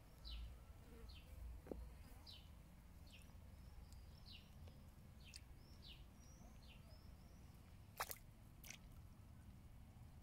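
A bird's faint, repeated short descending chirps, about one a second, with a few curved calls mixed in. Two sharp clicks about eight seconds in.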